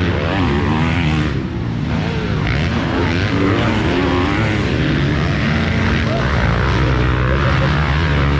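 Several motocross dirt bike engines revving up and down, their pitches rising and falling over one another, over a steady low drone.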